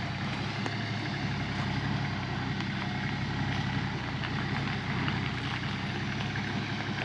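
Nissan Patrol GQ's TD42 diesel engine running steadily at low speed, moving slowly.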